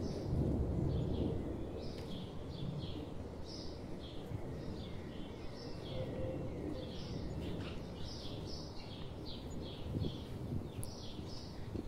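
Small birds chirping, many short high notes one after another, over a steady low rumble of background noise.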